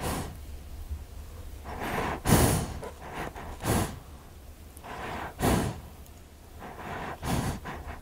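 Horse snorting and blowing, a series of about five noisy breaths through the nostrils, the loudest about two seconds in and again about five and a half seconds in.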